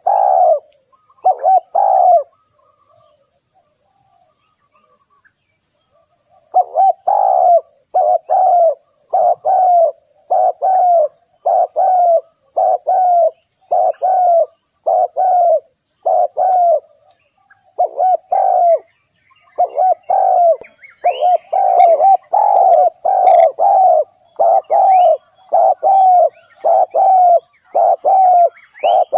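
A spotted dove cooing loudly and close: a few coos at the start, a pause of about four seconds, then a steady run of coos at about one or two a second. This is the call of a decoy dove used to lure wild doves. Small birds chirp faintly in the second half.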